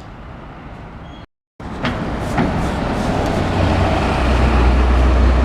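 Street traffic with a city bus approaching, its engine a deep rumble that grows louder through the second half. A moment of dead silence about a second in, where the recording cuts.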